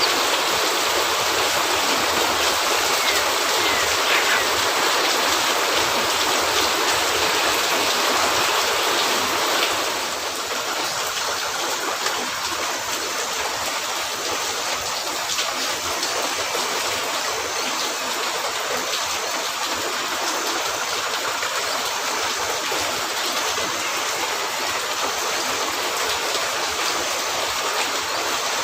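Steady heavy rain, an even dense hiss that drops slightly in level about ten seconds in.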